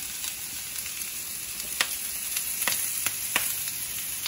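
Baby potato wedges sizzling in rendered chicken fat in a cast iron skillet: a steady frying hiss, with a few short sharp ticks in the second half.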